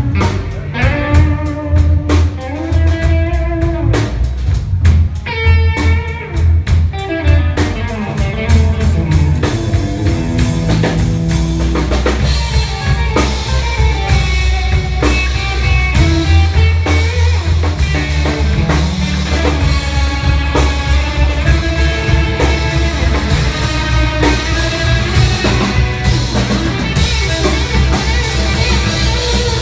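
Live blues band playing an instrumental break: melodic lead guitar lines over a steady drum kit and bass.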